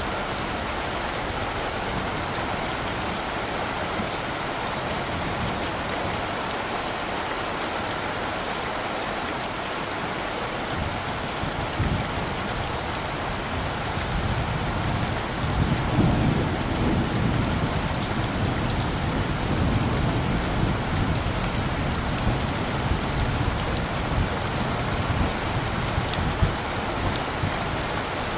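Steady rain pattering, with fine drop ticks throughout. About halfway through, a low rumble of distant thunder swells up and lingers under the rain.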